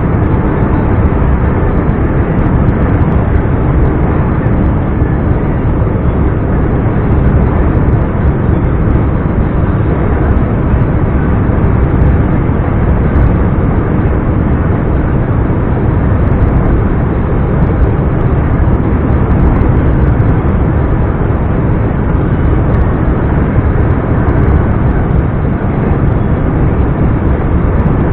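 Scania R420 truck's inline-six diesel running steadily under way, with road noise, at a constant engine speed with no revving up or down.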